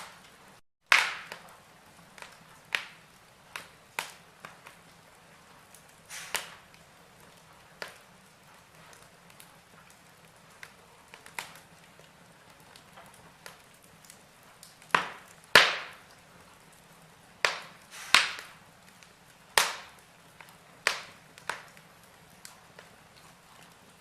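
Logs burning in a fireplace, crackling with irregular sharp pops and snaps over a faint steady hiss. The sound drops out for a split second just under a second in, and the loudest pops come in the second half.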